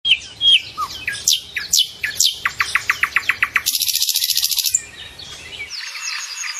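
Cardinal singing: sharp, down-slurred whistled notes, then a fast run of about ten repeated notes, followed by a dense buzzy trill about four seconds in. Thinner, higher chirping follows near the end.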